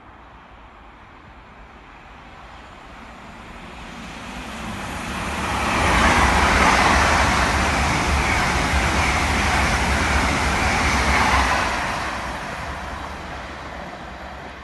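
Express passenger train passing through a station at speed: a rising rush of wheels on rail and air with a deep rumble underneath. It swells to a peak about six seconds in, holds for about six seconds, then fades as the train draws away.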